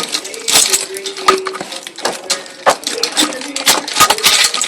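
Metal parts and tools clinking and clicking in quick, irregular knocks while an engine is being pulled from a car.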